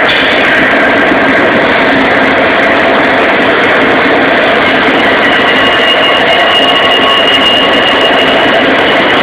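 Union Pacific diesel freight locomotives passing close by, engines running under a loud, steady rumble of wheels on rail. High, steady squealing tones come up from about five seconds in, typical of wheel flanges squealing on a curve.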